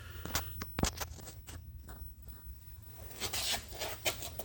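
Light clicks and a scraping rub from the shaper's crank arm being rocked back and forth by hand, taking up the play in the stroke-adjuster gear assembly. Several sharp clicks come in the first second, a short rub about three seconds in, and a couple more clicks near the end.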